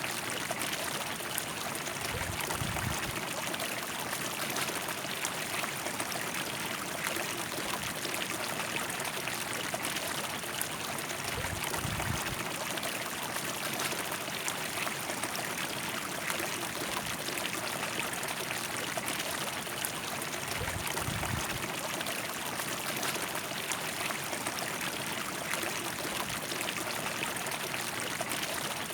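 River water flowing and splashing steadily over stones, an even rushing sound, with a few brief low rumbles roughly every nine seconds.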